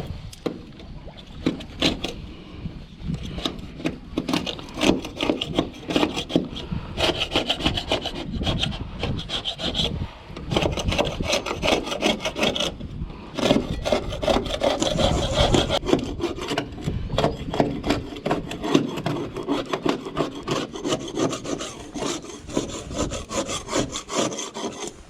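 Hand scraper scraping barnacles off a boat's hull in quick, repeated strokes.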